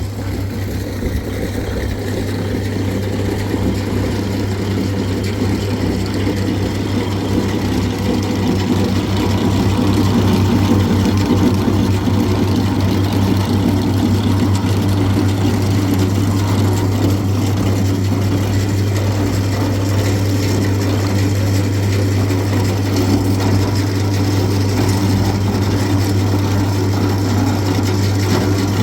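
An engine running steadily with a constant low hum, getting a little louder about ten seconds in.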